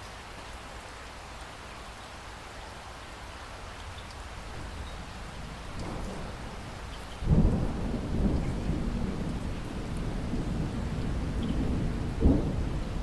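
Steady rain falling, joined a little past halfway by a sudden deep roll of distant thunder that rumbles on, with a sharper crack of thunder near the end.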